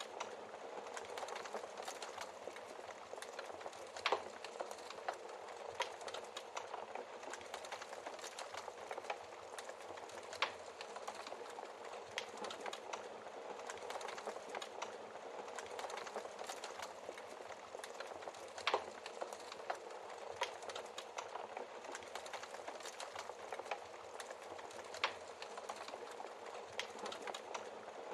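Wood fire crackling steadily in a fireplace, a dense patter of small crackles with several sharper log pops.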